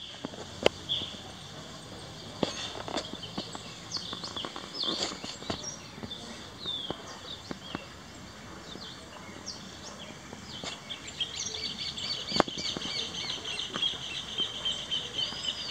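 Several small birds chirping and calling in short, quick notes, with a fast trill over the last few seconds. A few sharp clicks stand out.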